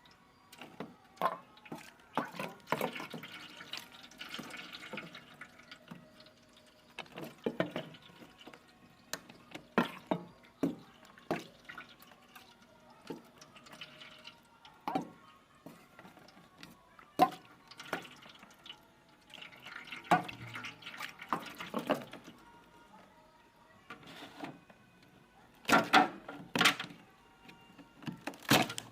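Irregular knocks, clicks and short scraping or splashing sounds from thick frost being broken and cleared out of a refrigerator freezer, with water dripping and sloshing.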